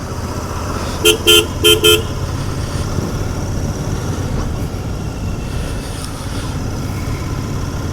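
Royal Enfield Continental GT 650's parallel-twin engine running steadily while riding, with road and wind noise. About a second in, a vehicle horn gives four short toots in two quick pairs.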